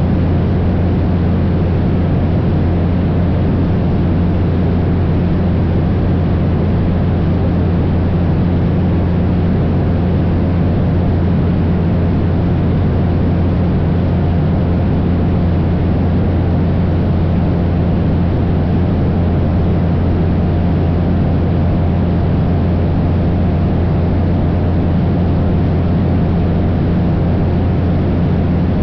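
Cessna 172 in flight: its piston engine and propeller drone steadily at a constant pitch, with rushing air noise beneath.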